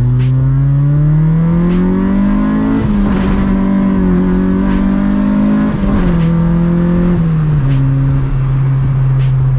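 Honda B20 four-cylinder engine in a Civic EG hatchback, heard from inside the cabin, pulling under throttle with its pitch rising for about three seconds. It holds steady, then falls in two steps about six and seven seconds in and settles to a steady cruise.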